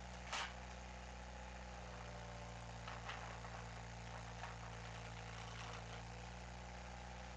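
Skid steer engine running steadily at idle, with one sharp click about half a second in.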